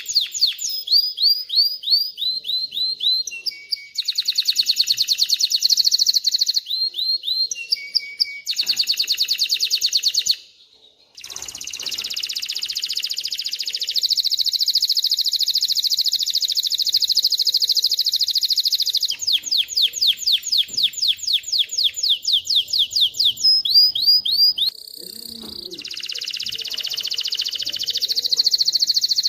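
Male domestic canary singing: a continuous song of rapidly repeated note series that switch pattern every few seconds. It breaks off briefly about ten seconds in, then holds a long rapid trill for several seconds before returning to faster repeated phrases.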